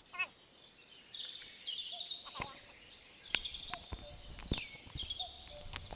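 Songbirds singing, with quick chirps, trills and falling notes throughout, and a few sharp knocks or clicks in between.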